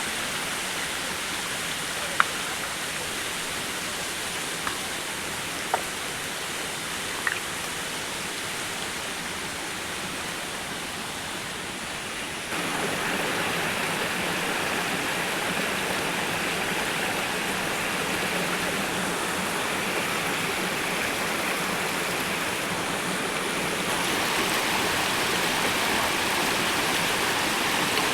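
Steady rush of falling and running water from a waterfall and its stream, with a few sharp clicks in the first several seconds. The rush jumps abruptly louder about halfway through.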